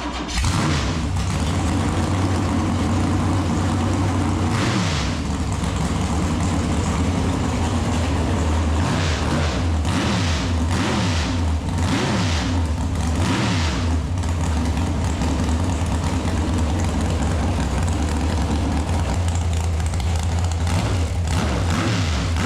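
496 cubic-inch stroker big-block V8 running through open 2.5-inch stainless zoomie headers, cutting in suddenly at the start. The throttle is blipped several times, the revs rising and falling, most often in a run of quick blips around the middle.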